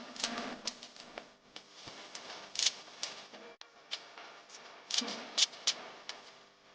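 Paper being handled and folded: irregular crinkling rustles and sharp clicks, with a cluster of louder crisp snaps about two and a half seconds in and again about five seconds in.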